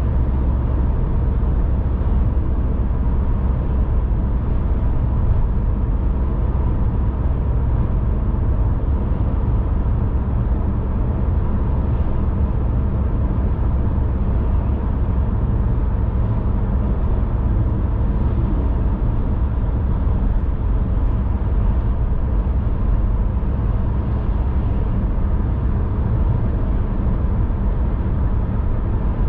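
A car driving at a steady speed: an even, unchanging rumble of road and engine noise, heaviest in the low bass.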